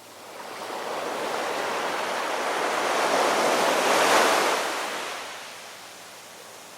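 A single ocean wave breaking and washing in, its noise swelling for about four seconds, then falling back to a low steady surf wash.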